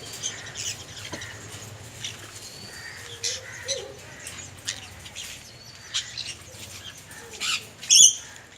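Egg-bound yellow-sided conure giving short, harsh squawks every second or so while being handled, the loudest one near the end.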